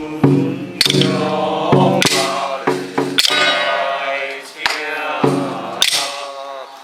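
Taoist ritual music for an oil-boiling purification rite: a sustained, gliding melodic line over steady held tones, punctuated by sharp clashing percussion strikes roughly once a second.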